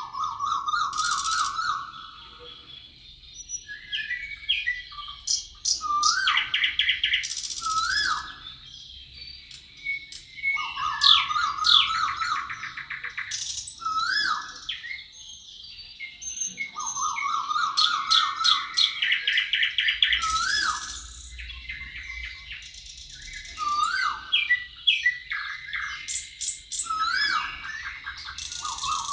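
Songbirds singing: a song phrase of quick rising-and-falling whistled notes and a rapid trill, recurring every five or six seconds, with other chirps between, over a faint steady high whine.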